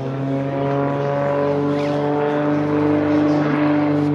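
A powered engine running steadily and evenly, its pitch drifting slightly up and down.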